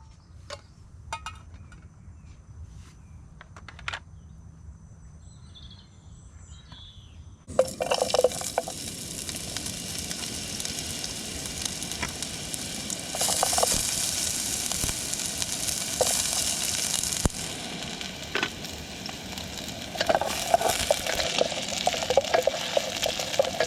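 Chopped onion and garlic hit hot oil in a pan and start sizzling about a third of the way in. The sizzling continues while they are stirred, with a spatula knocking and clinking against the pan, fast and repeated near the end. Before that there are only a few light clicks and taps.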